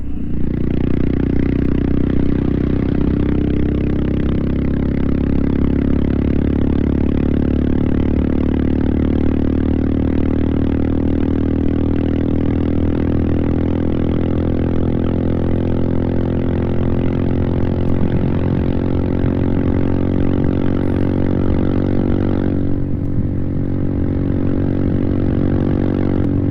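Royal Enfield Himalayan 450's single-cylinder engine running steadily under way, with a rushing noise over it. A few seconds before the end the rushing eases off while the engine note carries on.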